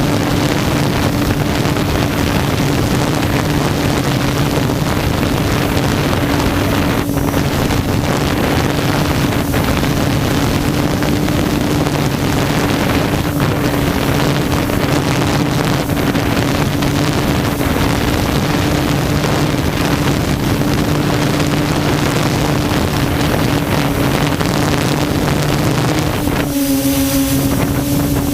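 Quadcopter's electric motors and propellers humming steadily in flight, with wind rushing over the camera's microphone. Near the end the hum briefly dips and settles at a slightly lower pitch.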